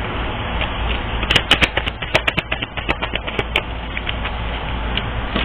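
Deck of reading cards being shuffled and handled: a quick run of sharp clicks and snaps in the middle, over a steady low hum.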